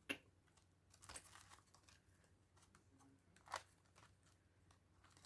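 Near silence with a few faint rustles and taps of paper envelopes and cards being handled, about a second in and again around three and a half seconds.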